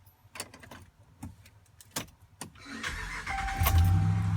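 A few sharp clicks, then a truck engine cranking and starting about three seconds in and settling into a steady idle, with a steady electronic tone sounding alongside.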